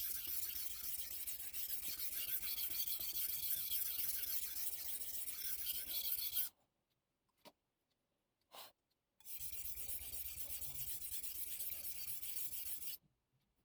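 Steel chef-knife blade being stroked across a wet Missarka combination whetstone: a continuous gritty scraping, which breaks off abruptly about six and a half seconds in, starts again about three seconds later and stops just before the end.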